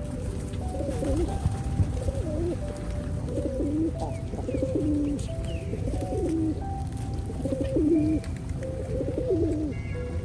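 Pigeons cooing over and over, one low falling coo about every second, over a steady low rumble; a few faint higher chirps come in about a third of the way through.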